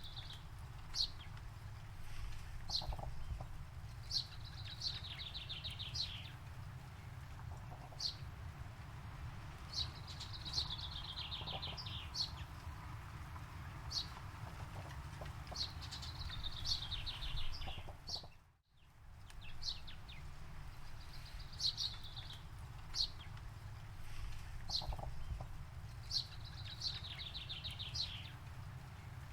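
A songbird singing a repeated song: a few short, high chips followed by a quick falling trill, about every six seconds. A steady low rumble lies underneath, and the whole sound drops out briefly about two-thirds of the way through.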